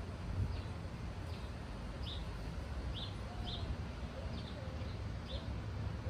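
A small bird chirping repeatedly outdoors, short high chirps about once a second, over a low steady rumble.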